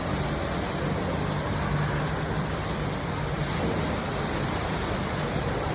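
Steady rushing of water falling from a tall indoor waterfall, even and unbroken.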